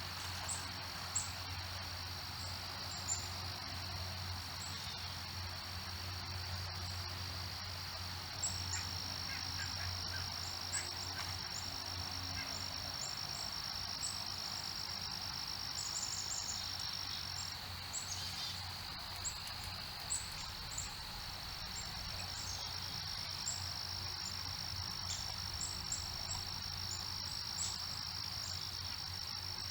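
Steady high-pitched insect chorus droning without a break, with many short high bird chirps scattered over it.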